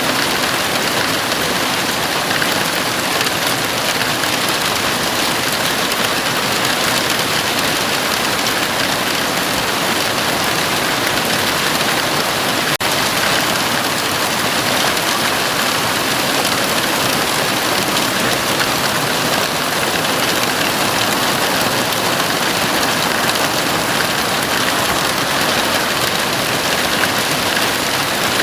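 Heavy rain falling steadily on the roof of a house: a dense, even hiss with no thunder. There is a split-second dip in loudness about halfway through.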